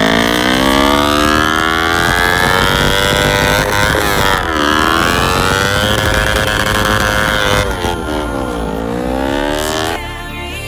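Sport motorcycle engine revving hard while stationary in a rear-wheel burnout: the pitch climbs for about four seconds, drops sharply, climbs again and holds, then dips and rises once more near the end.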